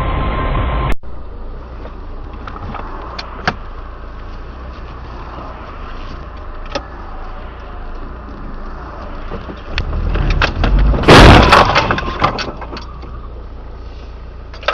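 Steady car road rumble with scattered knocks, then a loud crash about eleven seconds in: a burst of crunching and breaking lasting about a second, trailing off in rattles, typical of a traffic collision.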